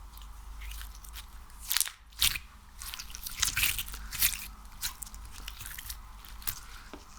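Sticky ASMR material (slime or wax) being squeezed and pulled by hand, giving irregular sticky crackles and pops, the loudest about two seconds in and a dense run in the middle.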